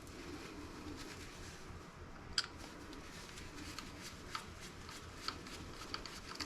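Small, sharp clicks and taps of a screwdriver and screws against laptop parts while screws are worked out of the circuit board, one louder click about two seconds in and a scatter of lighter ones later.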